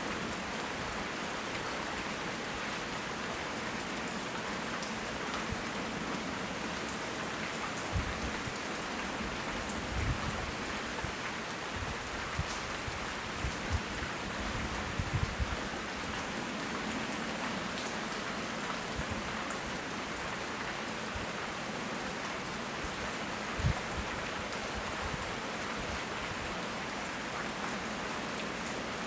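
Steady tropical rain falling, heard as an even hiss, recorded on a Samsung Galaxy S6 edge phone. A few short, low thumps come through it, the loudest near the end.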